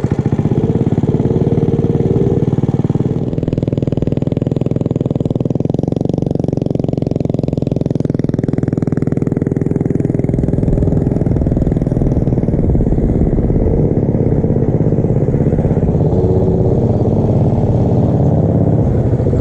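Small mini bike or pit bike engine running steadily under way, holding a fairly constant speed.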